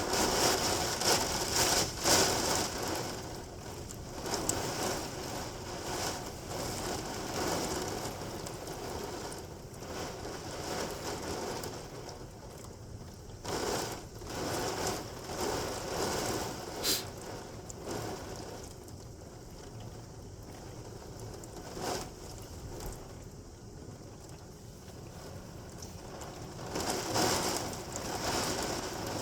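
Torrential rain pouring down, a dense hiss that swells and eases every few seconds, with a few sharp clicks.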